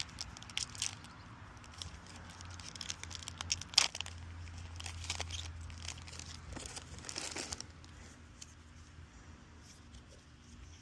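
Foil trading card booster pack crinkling and tearing open as it is handled, with a run of sharp crackles and rustles; the loudest snap comes just before four seconds in, and the handling grows quieter for the last few seconds.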